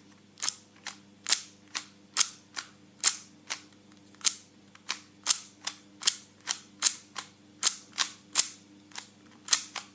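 Faces of two Giiker smart cubes being turned, a run of sharp plastic clicks about two a second, some louder than others. The louder clacks come from the stock cube, whose loose magnets move about. The modded cube, with its magnets glued in, turns more quietly.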